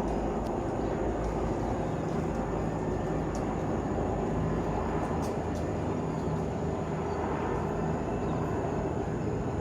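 Helicopters flying overhead: a steady, low engine and rotor drone.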